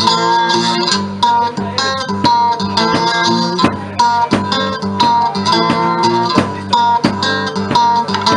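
Live blues music led by guitar: plucked guitar notes over a steady low bass line, with a sustained high melody note running through.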